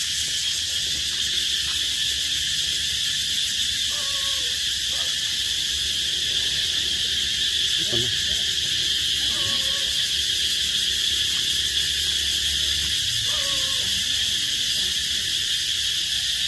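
A steady, unbroken chorus of insects with a high-pitched drone, with faint distant voices a few times.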